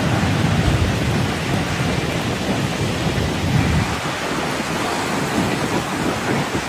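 Steady, even noise of rushing water from a flash flood, with a low rumble underneath.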